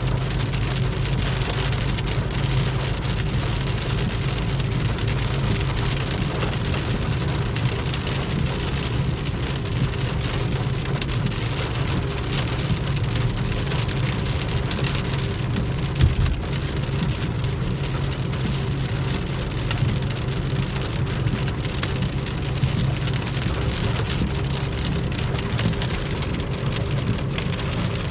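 Heavy rain falling on a car's roof and windscreen, heard from inside the moving car over a steady low drone of engine and tyres. One sharp thump about sixteen seconds in.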